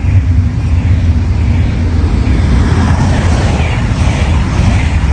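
Double-deck passenger train rolling past on its track: a loud, steady rumble of wheels on rails, with a higher rolling hiss growing stronger about halfway through.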